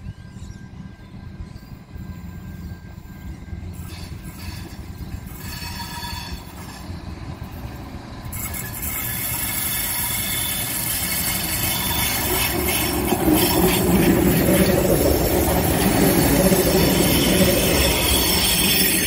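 Adelaide Metro diesel railcar approaching and passing close by, its engine and wheels on the rails growing steadily louder from about halfway through. High, thin wheel squeal rides over the rumble as it passes.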